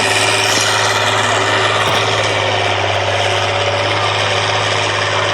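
A truck engine running steadily at an even speed, with a constant low hum and no revving.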